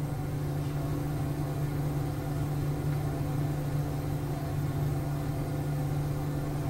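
A steady mechanical hum with a low droning tone, unchanging throughout.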